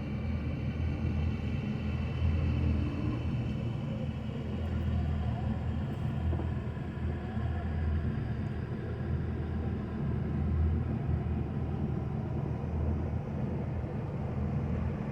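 An engine running steadily at idle, an even low rumble.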